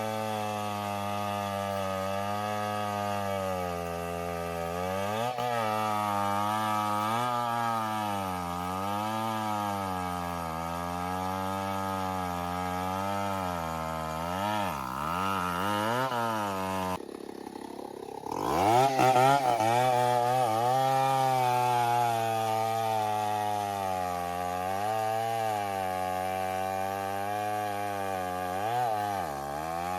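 An engine running continuously, its pitch rising and falling as the throttle or load changes. About halfway through it drops briefly, then revs back up.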